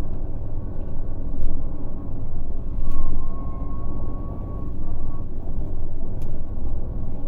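Scania K400 coach's diesel engine running with a deep, steady rumble. A thin high whine rises over it about three seconds in and fades out two seconds later.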